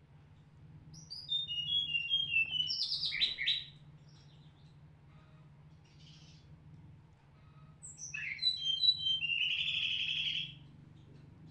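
Tledekan gunung (a small Indonesian songbird) singing two phrases. Each phrase is a quick series of short clear notes stepping down in pitch, ending in a dense rapid trill. A faint steady low hum runs underneath.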